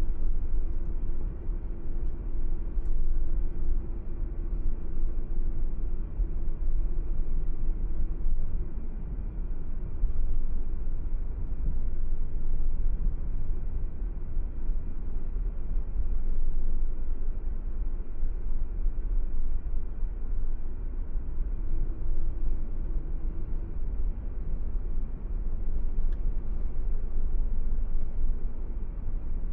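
Car driving at a steady pace, a constant low rumble of road and engine noise. A steady hum sits on top of it for the first several seconds and again briefly later on.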